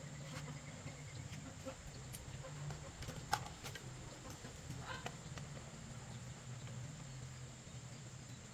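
Faint background sound: a low steady hum with a few sharp clicks, the loudest about three seconds in, and brief animal-like calls around three and five seconds in.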